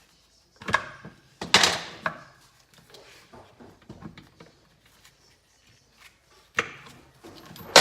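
Motorcycle clutch parts being handled and pulled off the engine: a knock, then a longer metallic clatter about a second and a half in, scattered light clicks, and another sharp knock near the end.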